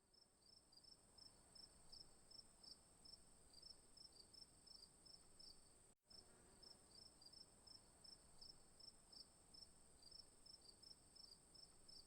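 Near silence with faint insect chirping, like crickets: a thin steady high buzz under quick, even chirps about four a second. The sound drops out briefly about six seconds in.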